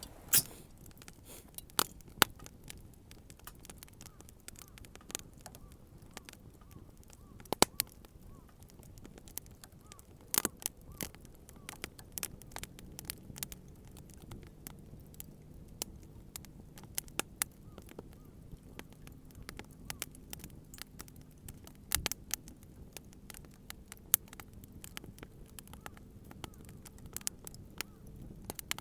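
Wood bonfire crackling, with irregular sharp pops and snaps scattered through, a few much louder than the rest. A faint low steady hum comes in about twelve seconds in.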